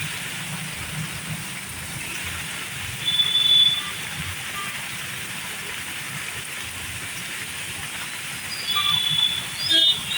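Steady hiss of heavy rain. Two brief, loud high-pitched tones rise above it, about three seconds in and again near the end.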